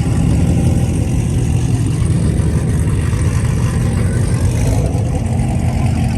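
Car engine running with a loud, deep exhaust note, holding steady throughout.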